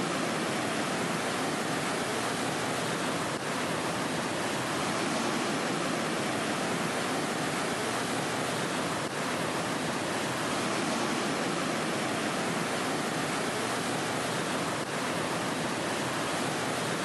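A steady, even rushing noise with no tones or beats, which cuts off abruptly at the end.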